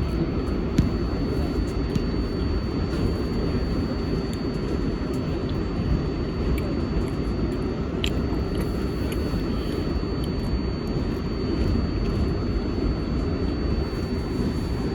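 R188 subway car running between stations: a steady rumble of wheels on rail with a faint steady high whine, and a couple of sharp clicks.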